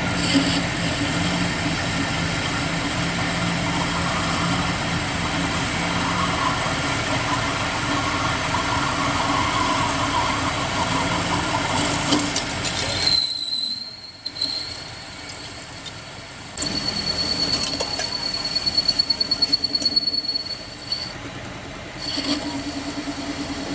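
Workshop machinery running with a steady hum. After a sudden drop, a high-pitched squeal sounds for a few seconds with rapid pulsing, then the steady running noise resumes near the end.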